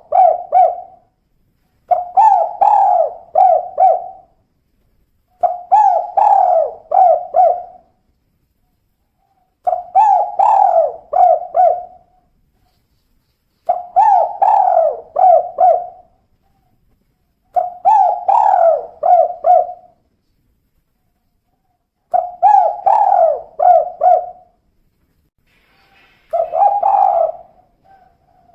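Female spotted dove (tekukur) giving its 'kuk 2' cooing call: phrases of several quick coos, each about two seconds long, repeated about every four seconds.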